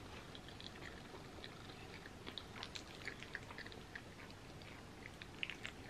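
Faint close-up chewing of soft macaroni and cheese, with many small mouth clicks and smacks scattered through it.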